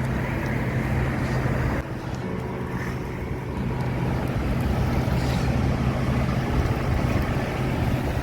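Wind buffeting the microphone over a steady low motor hum.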